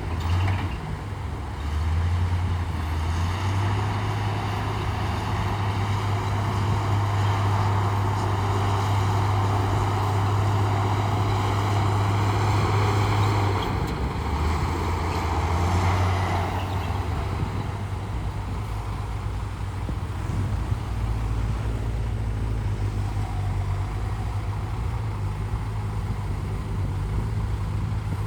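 Bulldozer's heavy diesel engine working under load, its low hum stepping in pitch a few times, with a rough grinding hiss that eases off a little past halfway.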